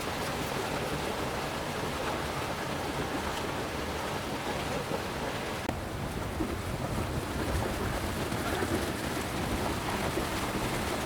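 Steady rain falling, a continuous hiss with fine drop patter and a low rumble beneath.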